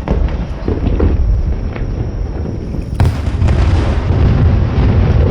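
Aerial fireworks bursting: a sharp bang about three seconds in and a couple of smaller cracks before it, over a continuous low rumble of booms.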